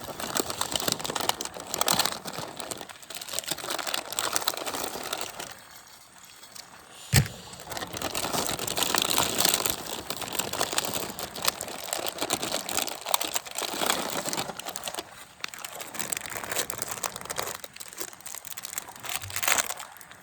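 Crinkling and rustling of something being handled close by, with one sharp click about seven seconds in.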